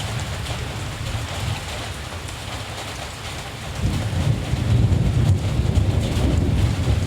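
Steady rain with a low rumble of distant thunder, which swells about four seconds in.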